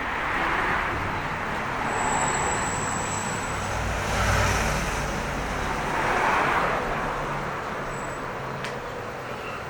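Road traffic: several cars passing one after another, each swelling up and fading away, with a heavier low rumble from one vehicle about halfway through.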